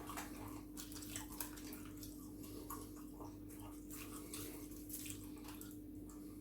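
A person chewing food close to the microphone: wet mouth sounds and many small sharp clicks and smacks, over a steady low electrical hum.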